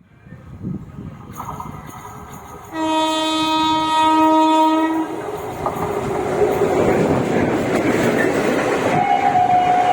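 A train horn sounds one steady blast of about two seconds, followed by the rumble and wheel clatter of a train running. Near the end a second, higher horn note starts and holds.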